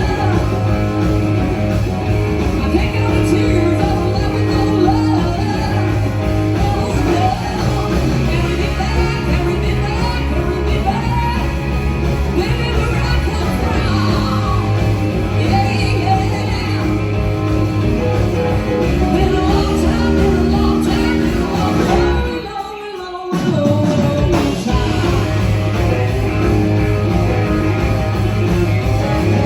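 Rock and roll song with singing over a full band. The band drops out for about a second roughly two-thirds of the way through, then comes back in.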